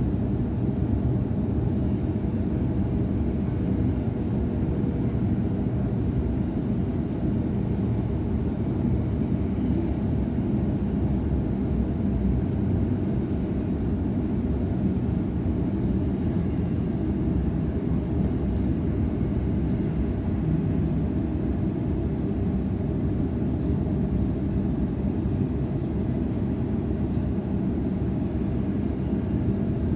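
Steady rumble and wheel-on-rail noise inside the carriage of a Sydney Trains Waratah electric train running at speed.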